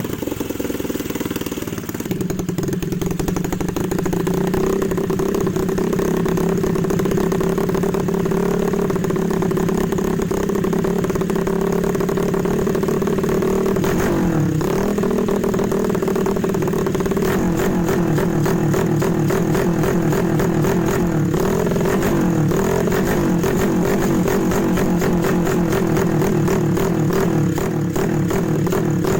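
Yamaha Mio scooter's single-cylinder four-stroke engine, built up to 150 cc and breathing through an aftermarket CLD Monster exhaust, running steadily at raised revs. Its pitch dips briefly about halfway through. In the second half the revs waver up and down in quick small blips.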